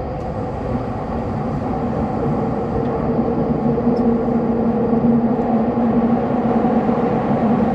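Subway train running through a tunnel: a steady rumble of wheels on rails with a low, even hum that grows slowly louder.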